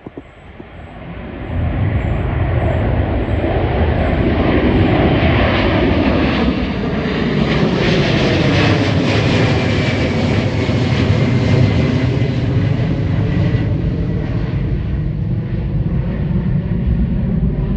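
Jet engines of a Boeing 767-400ER, General Electric CF6-80C2 turbofans, at takeoff power. A loud roar swells in within the first couple of seconds and then holds steady, with a thin high whine that slowly falls in pitch as the jet goes by.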